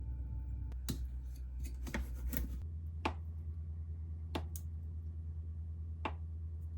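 Scattered light clicks and taps of kitchen utensils and dishes being handled, a quick cluster and then single taps every second or so, over a steady low hum.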